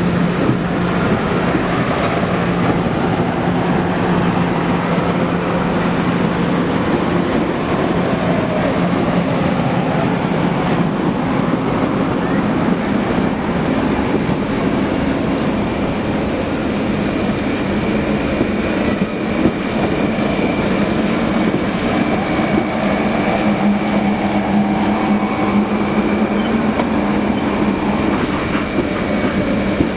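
Passenger train running on the rails: a steady rolling noise from the wheels and cars, with faint steady tones held over it.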